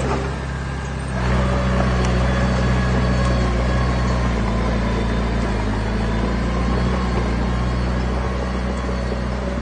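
Diesel engine of heavy earthmoving machinery running steadily. It steps up in level about a second in and then holds a constant note.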